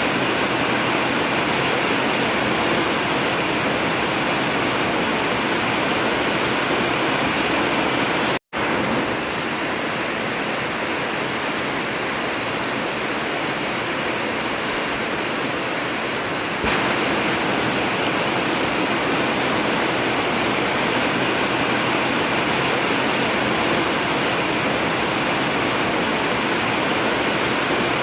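Heavy rain drumming steadily on an old tin metal roof, a dense even hiss with no thunder. It cuts out for an instant about eight seconds in, comes back slightly quieter, and steps back up a little past halfway.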